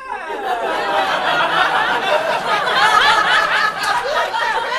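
Audience bursting into loud laughter all at once, many voices laughing together, with a swell in the middle.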